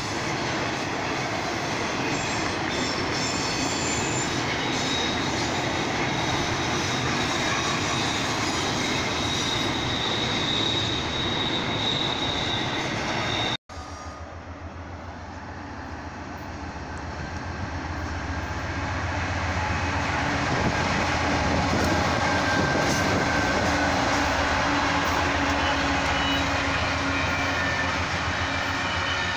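A double-stack container freight train rolling past, a steady rail-and-wheel rumble with a faint high wheel squeal. After a sudden cut, the low throb of BC Rail diesel locomotives grows louder as they approach, mixed with the rumble of passing freight cars.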